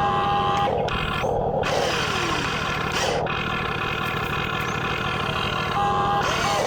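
Radio-controlled model construction machines running: small motors whining, their pitch rising and falling, over a steady rumbling din.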